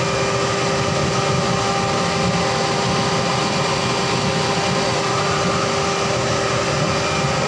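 A water heater running: a steady rushing noise with a constant hum in it.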